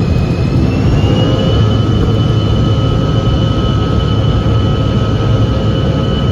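Jet airliner engines running at take-off power over a loud, steady rumble, the high whine rising and then levelling off about a second in as the engines spool up.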